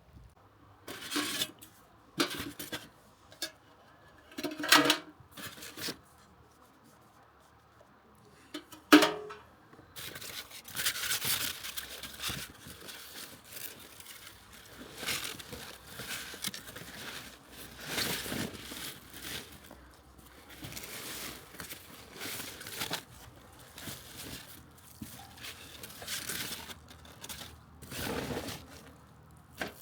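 Irregular rustling and crinkling handling noise, with a few sharp knocks in the first ten seconds, the loudest about nine seconds in, then continuous uneven rustling.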